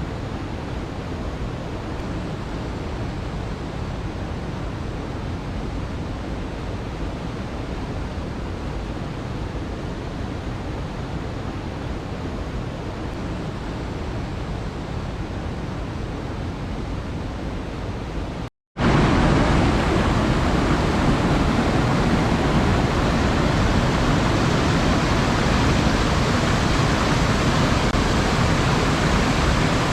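Waterfall rushing, a steady, even noise of falling water. After a brief break in the sound about two-thirds of the way in, it returns louder and brighter, as if heard from closer.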